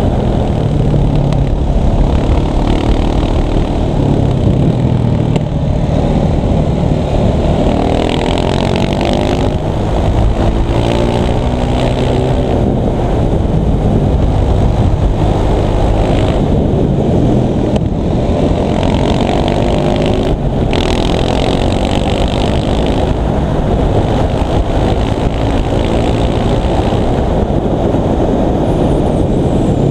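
KTM 690 SMC supermoto's single-cylinder four-stroke engine under way, the revs rising and falling again and again and dipping briefly a few times, with steady wind and road rumble underneath.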